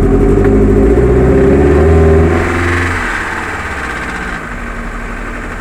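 Fiat Bravo engine held at raised revs, then falling back about two seconds in and settling to a steady fast idle.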